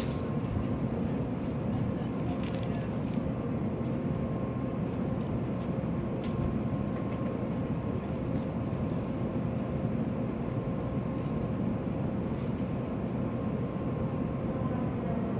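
Steady low hum and rumble of stationary Shinkansen trains' onboard equipment at a station platform, with a faint steady tone over it and a few light clicks.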